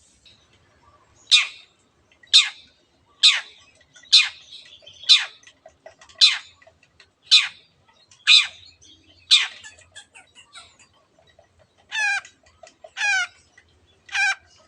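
Long-tailed shrike (cendet) calling: a run of about nine sharp, downward-sweeping calls roughly one a second, then three harsher, rattling notes near the end.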